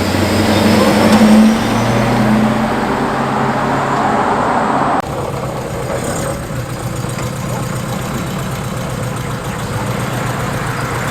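Car engines pulling away and driving past, loudest about a second and a half in. About five seconds in the sound drops suddenly to a quieter, steady engine running.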